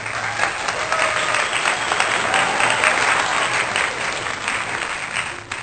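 A crowd applauding, a dense patter of many hands clapping with a few voices calling out, cut in and out abruptly.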